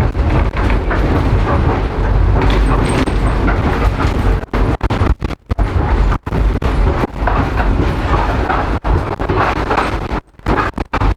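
A tram running past on street track: a loud, steady rumble with the wheels clattering on the rails. The sound cuts out for a moment several times.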